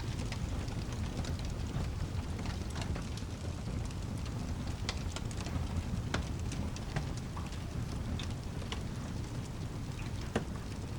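Steady rain over a low, continuous rumble, with scattered sharp crackles and ticks, one a little louder near the end.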